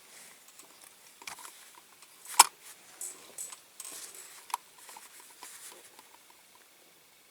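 Small handling noises of a sticker being pressed onto a diecast model: light crinkling of paper and scattered clicks, with one sharp click about two and a half seconds in and a lighter one a couple of seconds later.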